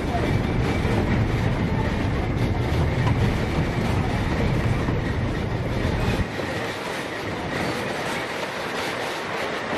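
Narrow-gauge train running along the track: a steady rumble of wheels and carriage on the rails. The deep low rumble drops away suddenly about six seconds in, leaving a lighter running noise.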